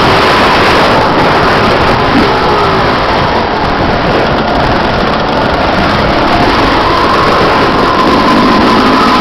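Motocross bike engine running, loud and continuous, its revs easing a little in the middle and rising again near the end.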